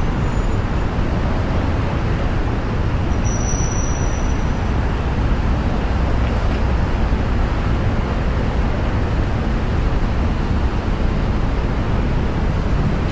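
Steady rumble of a car driving on snow-covered roads: tyre and road noise with a low drone.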